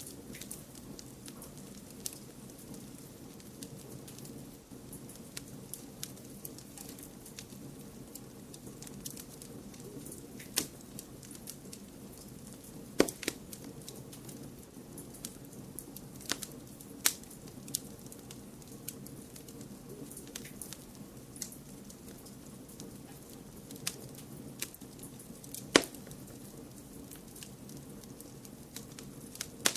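Wood fire in a fireplace crackling, with irregular sharp pops over a steady low noise bed; two pops, about halfway and near the end, stand out as the loudest.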